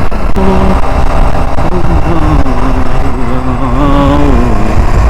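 Loud, steady low rumble of a car's engine and road noise in traffic. Over the middle seconds a pitched tone wavers up and down above it.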